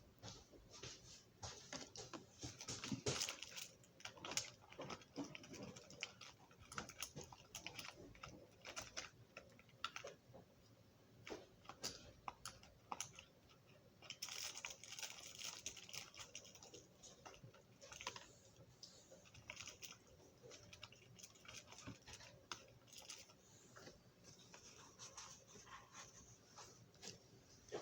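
Faint scattered clicks, taps and brief rustles of small metal and plastic parts of a Marx toy switcher locomotive being handled.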